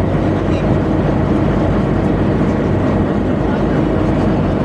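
Tugboat machinery running with a steady, even low hum.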